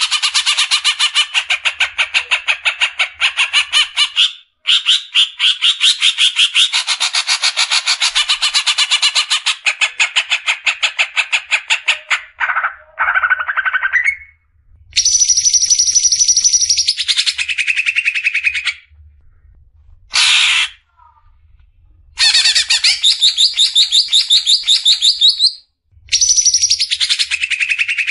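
Green leafbird (cucak ijo) singing a fast burst song: long runs of rapid repeated notes for the first twelve seconds, then shorter phrases separated by brief pauses.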